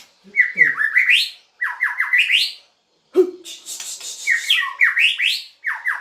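White-rumped shama (murai batu) singing: four quick phrases of rapidly repeated upward-sweeping notes, with short pauses between them, and a harsh, rasping passage about halfway through.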